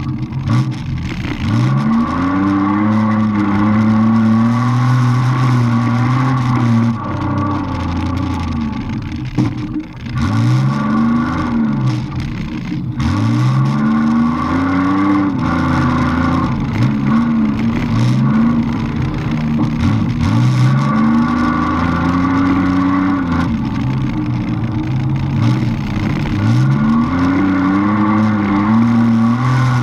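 Six-cylinder demolition derby car's engine heard from inside the car, revving over and over, its pitch climbing and dropping back every few seconds as the driver accelerates and lets off.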